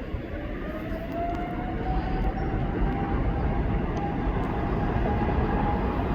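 Cargolux Boeing 747-400 freighter's four jet engines spooling up for takeoff: a low rumble growing louder, with a whine that rises in pitch over the first few seconds.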